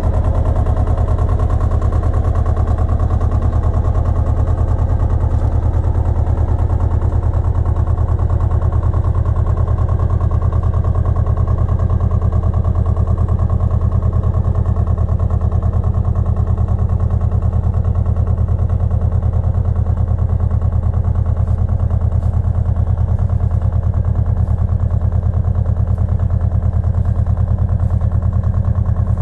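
Pasquali 980 EX compact tractor's engine running steadily at constant speed, with a fast, even beat.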